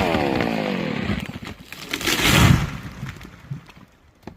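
Chainsaw engine winding down after the cut, its pitch falling steadily over about a second and a half. About two seconds in comes a short rough crash, then only a few faint clicks.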